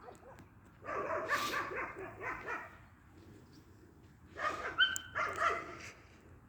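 A dog barking in two bouts of quick barks, the second starting about three seconds after the first ends.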